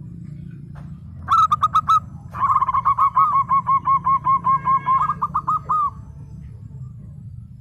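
Zebra dove (perkutut) singing: a short burst of quick staccato coo notes about a second in, then a longer run of rapid repeated coos lasting about three and a half seconds. A low steady hum runs underneath.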